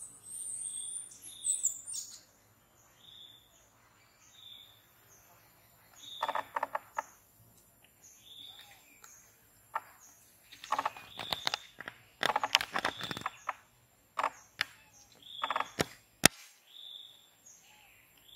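A bird calling with short high chirps, repeated every second or so, with a quicker twitter in the first two seconds. Bursts of rustling and sharp clicks come now and then through the middle.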